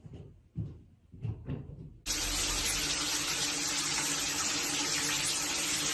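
A few soft knocks, then about two seconds in a loud, steady rushing noise starts suddenly and holds at an even level.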